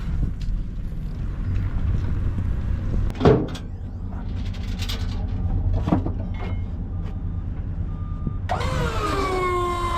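Low, steady rumble of a running vehicle engine, with a few short knocks. About eight and a half seconds in, music with long held tones comes in.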